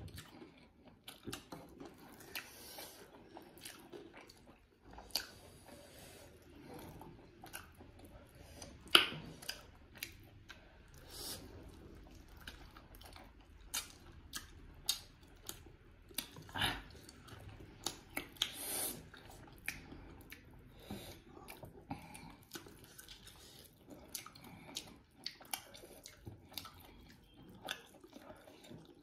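Two people eating chicken on the bone with their hands: close chewing, biting and wet mouth sounds, heard as irregular clicks and smacks. The sharpest click comes about nine seconds in.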